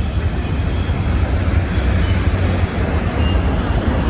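Last cars of a long freight train rolling past, a loud steady rumble of steel wheels on rail.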